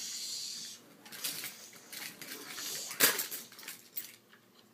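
Toy cars and a toy monster truck clattering and knocking together in play, with scattered rustling scrapes and one sharp knock about three seconds in.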